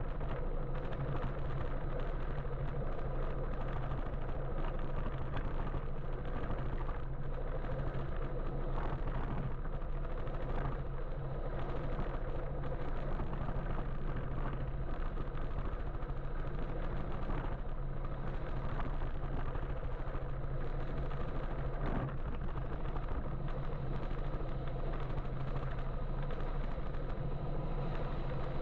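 Steady road and traffic noise heard while riding an electric motorbike, with a constant low hum and no sudden events.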